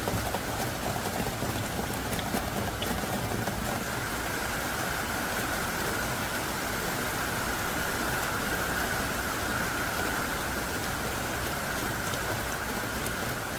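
Heavy rain pouring down in a steady, dense hiss, with a few separate drop ticks in the first few seconds.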